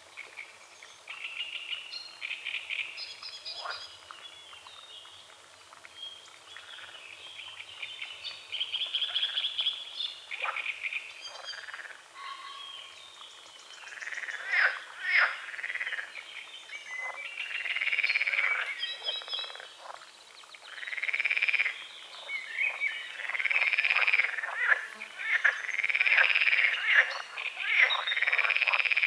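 A chorus of frogs croaking at a lake, with songbirds chirping among them. The calls are scattered at first and get louder about halfway through, coming as a run of rising-and-falling croaks about a second long, one after another.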